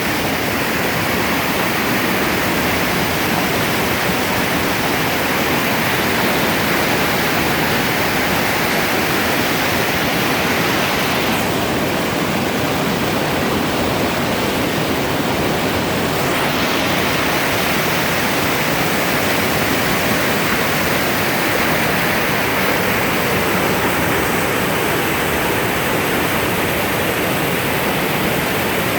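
Steady rushing of flowing water, running without a break and briefly a little duller in tone for a few seconds near the middle.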